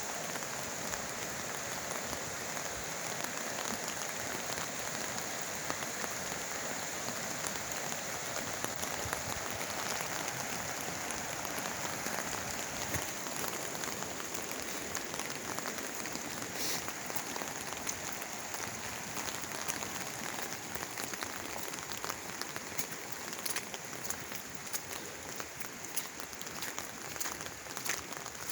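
Rain falling on an umbrella held overhead: a steady hiss with scattered drop taps, easing slightly near the end.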